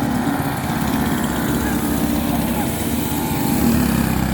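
Several kid karts' small engines running together on track, a steady drone with no big changes.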